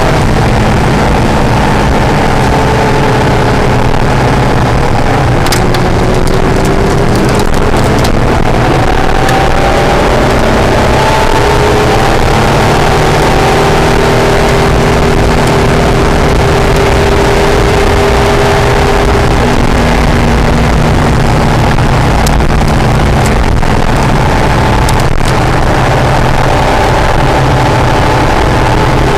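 Acura NSX's V6 engine running hard at track speed, its pitch climbing and dropping again and again as the car accelerates, shifts and brakes, over steady road and wind noise. A few short sharp clicks come through in places.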